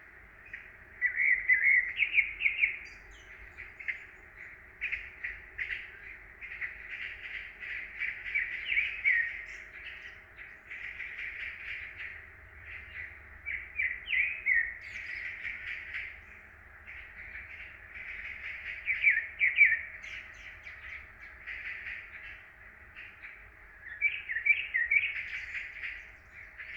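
Songbirds in a spring woodland chirping and calling almost without pause, several at once, in quick high twittering runs with louder flurries near the start, around two-thirds of the way in and near the end.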